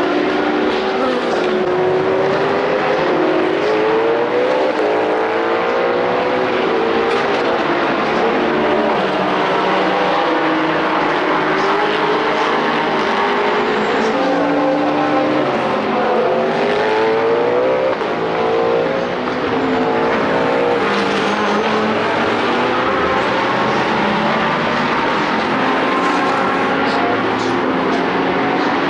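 Several IMSA sports cars racing, their engines overlapping and rising and falling in pitch as they accelerate, change gear and lift off.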